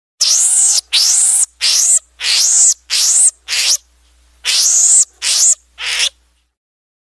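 An animal's harsh, rasping calls: six in quick succession, a short pause, then three more.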